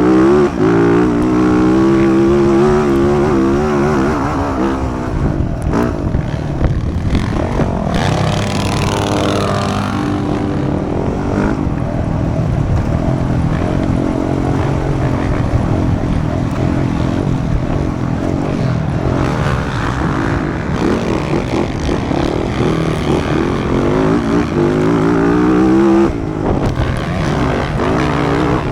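Motocross dirt bike engine being ridden hard: it revs up and down with throttle and gear changes. Its pitch climbs several times, then drops sharply near the end as the throttle is cut.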